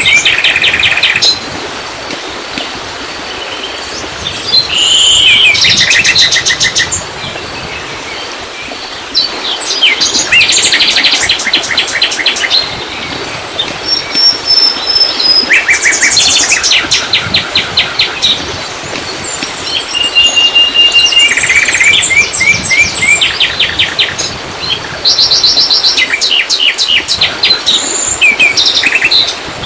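Songbirds singing in bouts of fast, repeated high chirps and trills, each a second or two long and recurring every few seconds, several songs overlapping, over a steady hiss.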